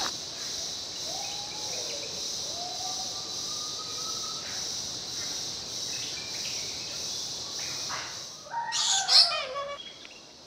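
A steady high insect drone with a few soft whistled bird notes, then a louder, brief burst of chirping bird calls near the end.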